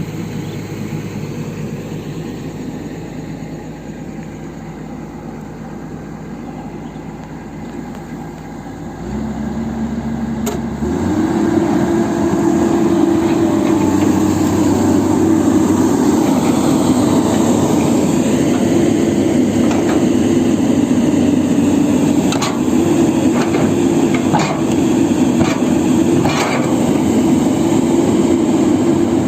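Excavator diesel engine idling, then speeding up about nine seconds in and running loud under hydraulic load while the slipped track is worked back onto the sprocket. A few sharp metal clanks near the end.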